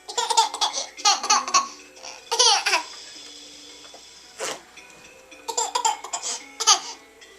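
A baby laughing and squealing in short high-pitched bursts, several clusters of them with pauses between.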